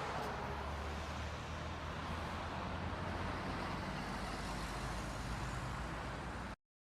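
Steady vehicle road noise, a low engine rumble under a hiss of traffic, which cuts off abruptly near the end.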